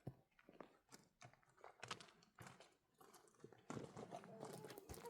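A flock of sheep moving and grazing over stony ground: faint, irregular crunches and clicks that grow busier near the end.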